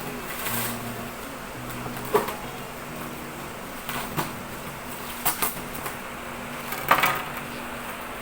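Packaging and parts of an espresso machine being handled while unboxing: a few scattered knocks and clicks with brief rustles, the sharpest about seven seconds in, over faint steady low tones.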